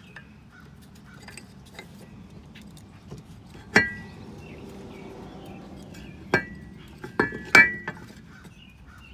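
A few sharp metallic clinks with a brief ring, the loudest about four seconds in and two close together near the end: a steel tool and the brake pads' metal backing plates knocking against the caliper as worn-out rear brake pads are worked loose.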